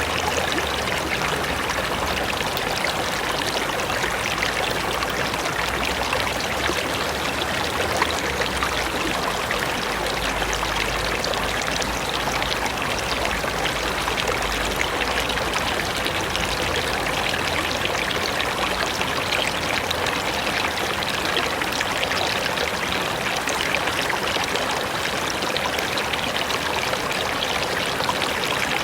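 Mountain river flowing steadily: an even, continuous rush of running water.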